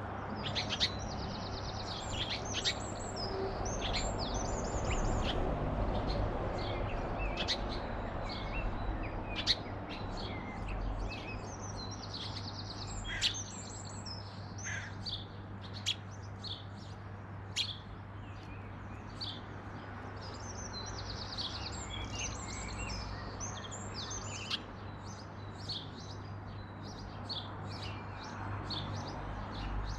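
Garden birds chirping and singing, many short high calls and trills overlapping throughout, over a steady low hum and a background rumble.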